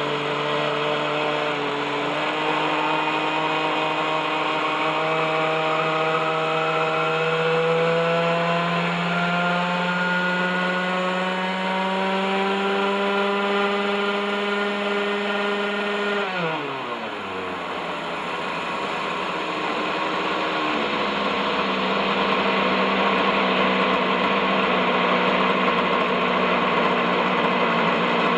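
Model helicopter's OS 61SF two-stroke glow engine running at hover, its pitch creeping slowly upward for about sixteen seconds, then falling sharply and settling at a lower, steady note. The engine has gone more than thirty years without servicing, and its bearings are rusty.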